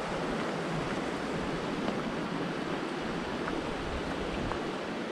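Rushing water of a rocky creek or small waterfall, a steady even rush.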